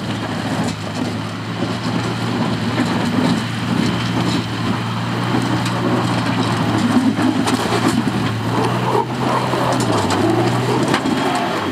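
A vehicle engine running steadily under a dense crunching, rattling noise; the engine's pitch dips briefly near the end.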